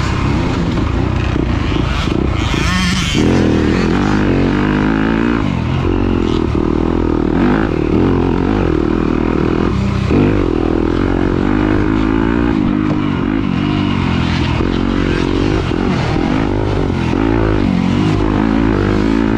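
Motocross dirt bike engine racing at full load, revving up and down again and again as the throttle opens and closes, with brief drops in revs a few times.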